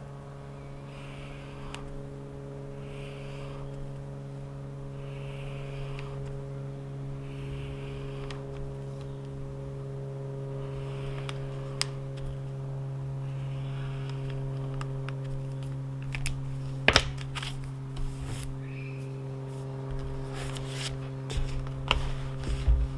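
A steady low machine hum, with faint chirps about every two seconds, then a few sharp clicks and taps near the end.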